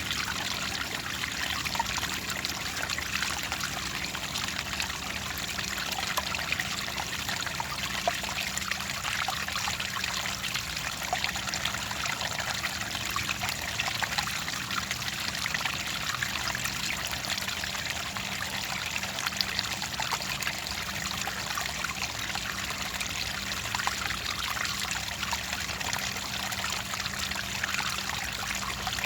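Clear water trickling and pouring steadily, a stream of small splashes and drips.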